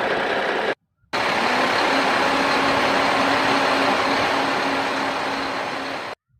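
An RC truck running with a steady engine-like drone and a faint steady hum, cut off abruptly a little under a second in. After a short silence it resumes, then stops suddenly near the end.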